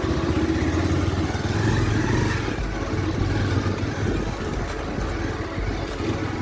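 Motorcycle engine running under way, a low steady rumble with wind and road noise on the microphone.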